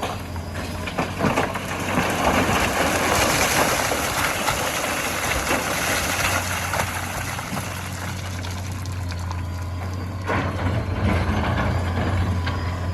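Diesel engines of an excavator and dump truck running steadily. From about two to ten seconds in, a loud rushing, rattling noise lies over them, fitting sand and stones being loaded into the truck bed.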